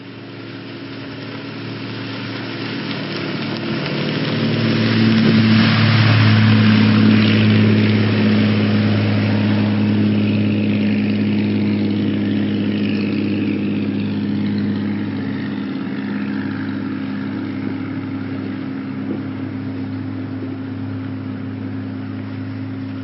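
Motorboat engine running at a steady pitch, growing louder over the first six seconds and then holding a little lower.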